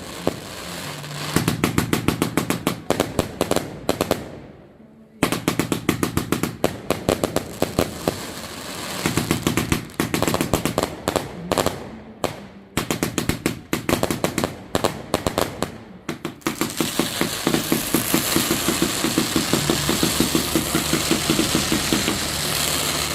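Fireworks barrage going off in rapid volleys of sharp bangs, several a second, like machine-gun fire, with a brief lull about five seconds in. From about two-thirds of the way through, the bangs merge into a dense continuous crackling.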